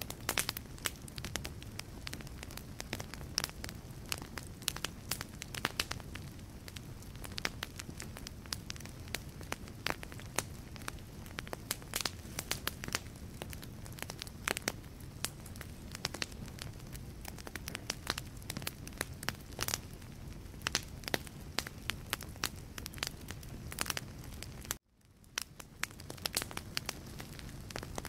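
Logs burning in a fireplace, with frequent sharp crackles and pops over a low steady rumble of the flames. About 25 seconds in, the sound cuts out abruptly and fades back up over about a second.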